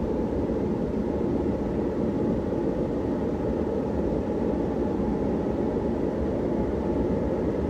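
Emerson Premium 52-inch ceiling fan running on high speed: a steady rush of air from the blades, with a faint steady tone above it.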